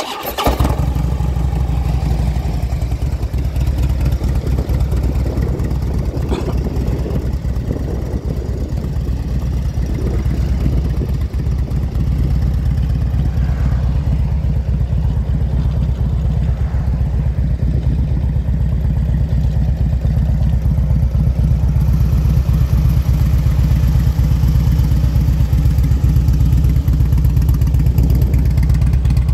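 A 2007 Harley-Davidson Ultra Classic Electra Glide's Twin Cam 96 V-twin, fitted with a Screaming Eagle open intake and ignition and Vance & Hines Ovals exhaust tips, fires up at the very start and settles into a steady idle. It gets a little louder in the last third.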